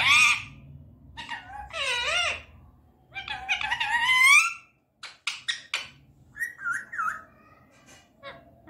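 Indian ringneck parakeet vocalizing: three drawn-out, wavering high calls, the third the loudest and rising at its end, then a quick run of sharp clicks and a short whistle.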